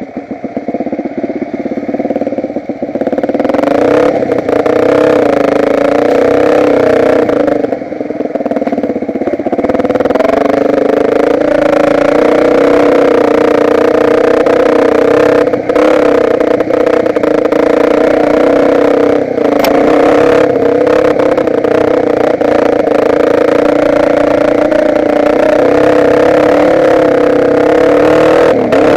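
Dirt bike engine picking up revs about three seconds in, then running hard at fairly steady high revs, easing off briefly once near the start.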